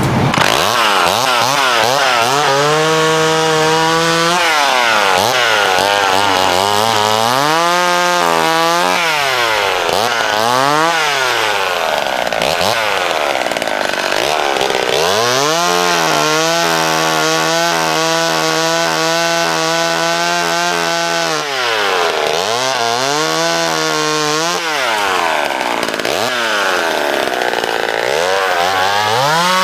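McCulloch Mini Mac 35 two-stroke chainsaw cutting branches. It revs up to full throttle and drops back several times, and is held at full throttle for about six seconds in the middle.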